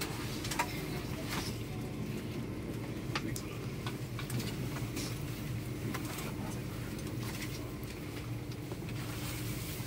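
GWR passenger train rolling slowly past the platform as it arrives at the station: a steady low rumble and hum, with scattered sharp clicks.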